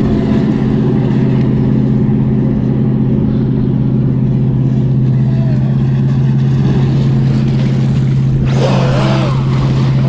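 A personal watercraft's engine running with a steady low drone that holds one pitch. Near the end a brief louder burst of higher, wavering sound rises over it.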